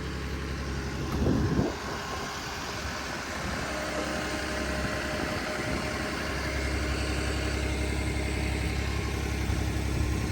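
Tractor engine running steadily at low revs, with a short louder noise about a second and a half in.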